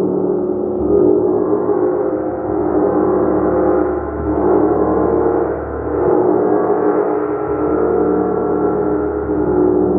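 Large gong played continuously, struck softly over and over so that its many overlapping tones build into a steady, shimmering wash that swells and ebbs every second or two.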